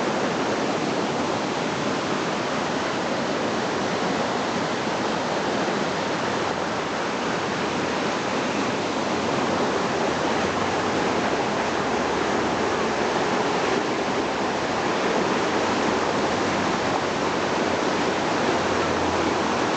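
Swollen, muddy river in spate after a typhoon: a narrow river running high and fast with a steady rushing roar of turbulent floodwater.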